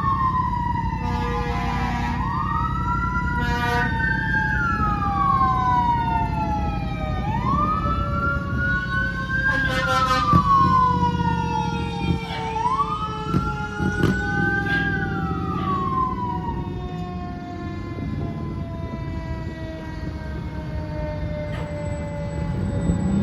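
Fire trucks arriving under sirens. An electronic wail siren rises and falls every few seconds until about two-thirds of the way through, while a mechanical siren winds down in one long, slowly falling tone. Short air-horn blasts sound near the start and again about ten seconds in, over the low rumble of the trucks' diesel engines.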